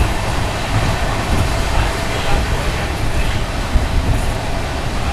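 Passenger coach of a moving express train: a steady rumble of the wheels running on the rails.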